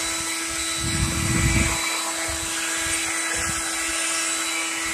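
Leaf blower running steadily with a constant high whine over a rush of air, and a brief low rumble about a second in.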